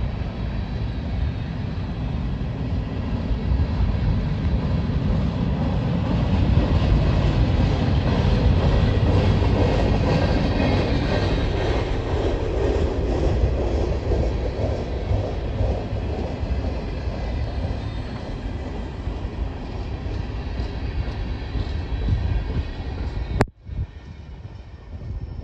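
Freight train of tank cars rolling past, with a heavy low rumble of wheels on the rails and a clatter over the crossing. The sound cuts off sharply about a second before the end, leaving a much quieter hiss.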